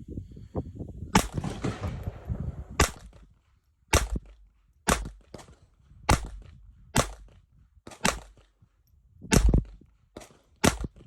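Ruger LCP II .22 LR pocket pistol firing a string of about ten sharp shots, roughly a second apart.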